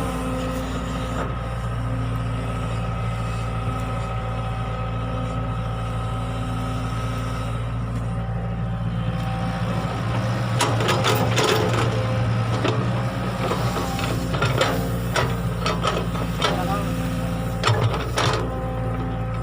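Excavator's diesel engine running steadily under load. From about halfway through, a run of sharp clanks and scrapes, like the bucket and steel working against soil and stones.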